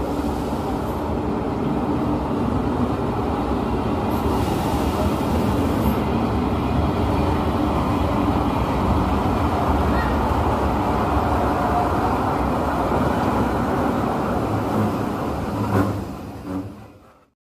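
Abu Qir line diesel passenger train pulling into the station and running past close by: engine and wheels on the rails, loud and steady. A sharp knock comes near the end, then the sound fades out quickly.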